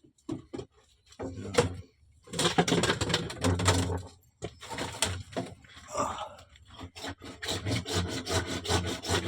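Hand sawing: back-and-forth saw strokes, irregular at first, then a fast, steady run of strokes over the last couple of seconds.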